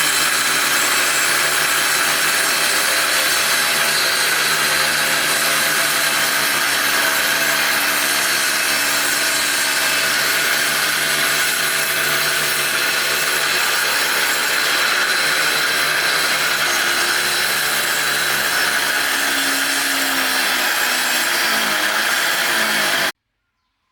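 Electric woodworking machine running steadily as it cuts wood, with a constant motor pitch under the noise of the cut. The sound cuts off suddenly just before the end.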